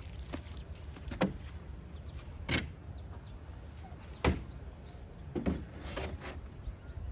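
A handful of separate knocks and clunks, about six spread over several seconds, over a steady low hum.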